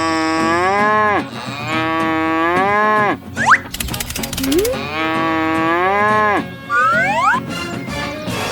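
Cow mooing three times in long, steady-pitched moos, with quick rising whistle-like glides between them.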